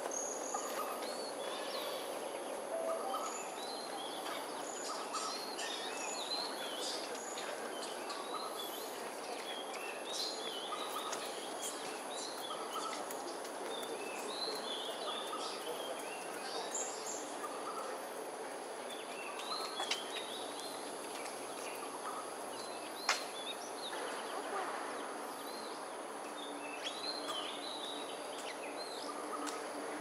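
Birds giving many short, high chirps scattered throughout, over a steady outdoor background hum. One sharp click stands out about 23 seconds in.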